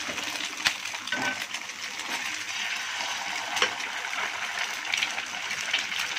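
Eggs and onions frying in oil on a hot dosa griddle: a steady sizzle, with a few sharp clicks, the first about a second in.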